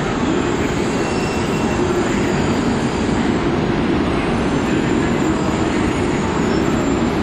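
Tokaido Shinkansen train moving slowly through the station, a steady rolling rumble.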